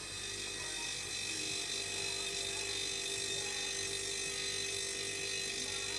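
LG refrigerator compressor running with a steady hum under a high, rushing hiss as refrigerant is charged into the system. The noise is a sign of a failing compressor that needs replacing.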